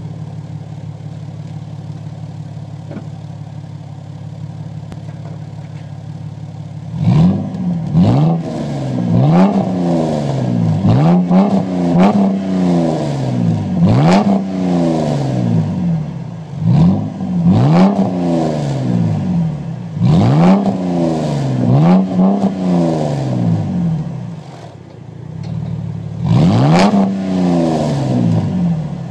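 2007 Ford Mustang's 4.0-litre V6 exhaust through true dual straight pipes with Flowmaster Super 10 mufflers. It idles steadily for about seven seconds, then is revved over and over, each rev climbing sharply and falling back to idle. It settles briefly near the end before one last rev.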